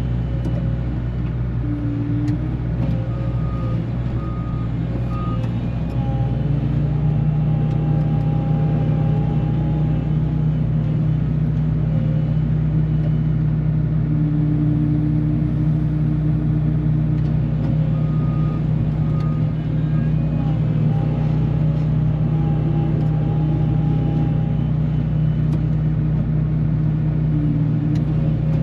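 Engine of a heavy farm machine running steadily under load while pulling old fence posts. It steps up to a higher, louder note about six seconds in and holds there, with a few short higher tones over it.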